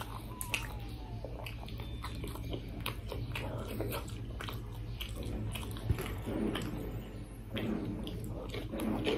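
Close-up chewing and mouth noises of a person eating rice and chicken by hand, with many small wet clicks and smacks.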